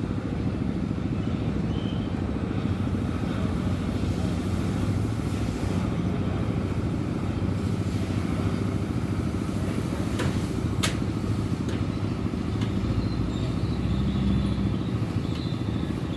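A road vehicle engine, like a motorcycle's, runs steadily as a low rumble, with two short sharp clicks about ten seconds in.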